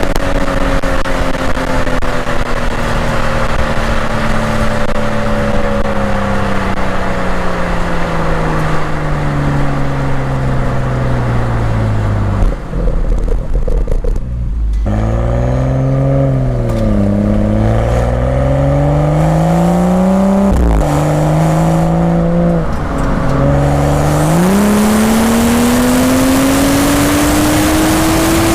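Exhaust note of a BMW M235i's turbocharged straight-six on the move: the revs fall steadily for about twelve seconds, then rise and fall in a few short swings with a sudden drop about twenty seconds in, as at a gear change, and climb again under acceleration near the end.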